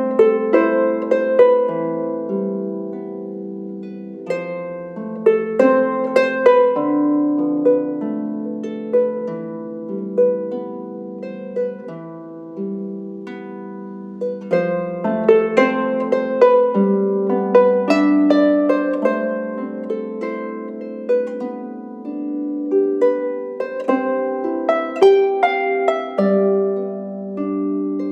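Solo small lever harp (a 26-string Harpsicle) playing a melody of plucked notes over lower accompanying notes, each note ringing on after it is plucked.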